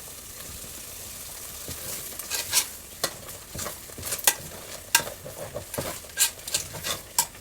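Food sizzling in a pot with a steady hiss. From about two seconds in, a spoon scrapes and knocks against the pot in irregular strokes as the soup is stirred.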